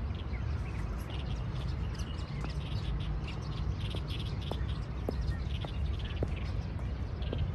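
Small birds chirping in many quick, overlapping short calls over a steady low rumble.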